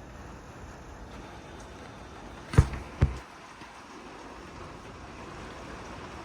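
Steady storm noise of wind and rain, broken about two and a half seconds in by two sharp thumps half a second apart.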